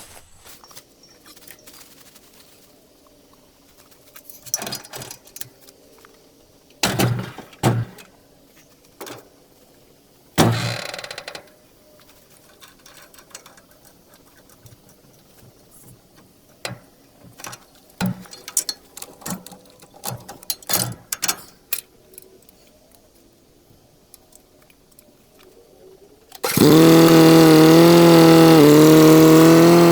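Scattered metal clunks and knocks, then near the end a tractor engine starts up loud and steady all at once, its pitch dipping slightly just before the end.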